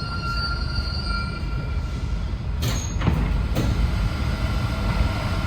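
Inside an Alstom NS-16 metro car standing at a station: a steady hum and rumble from the train, with a faint high whine that fades in the first second or so and a few sharp clacks about three seconds in.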